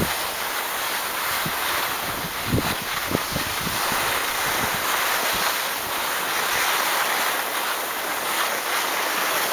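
Steady rushing hiss of skiing downhill: skis sliding over snow with wind across the microphone, and a few dull knocks between two and a half and three seconds in.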